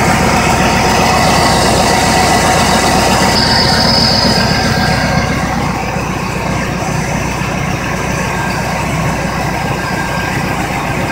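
Chevrolet LT1 5.7-litre small-block V8 idling steadily, with a faint high whine for a second or two around the middle.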